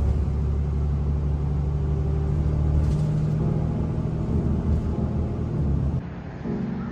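Loud, steady low engine rumble of a vehicle, starting abruptly and dropping in level about six seconds in.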